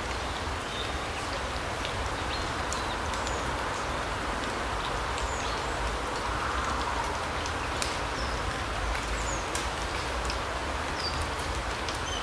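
Larch-forest ambience: a steady rushing hiss that swells a little about halfway through, with many short, high bird chirps and scattered small ticks over a low rumble.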